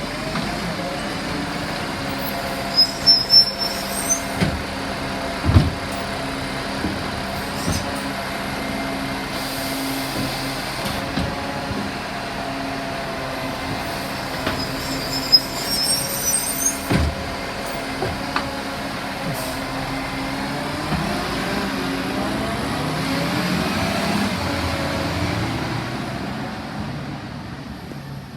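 Garbage truck running during kerbside bin collection, with several clanks and knocks and brief high squeals about three seconds in and again around fifteen seconds. Its engine revs up later on and then fades away near the end.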